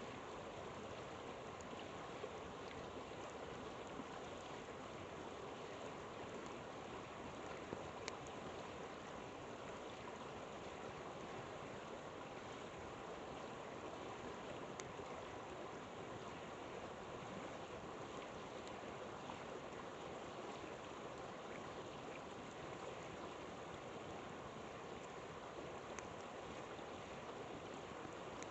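A river flowing steadily, with a few sharp crackles from the campfire, the loudest pair about eight seconds in.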